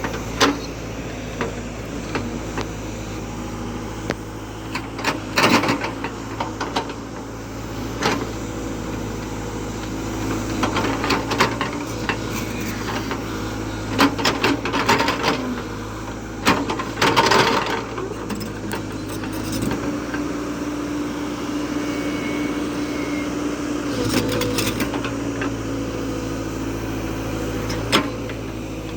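Diesel engine of a JCB 3DX backhoe loader running steadily, its note shifting with load, with several sharp knocks and spells of clatter from the working machine.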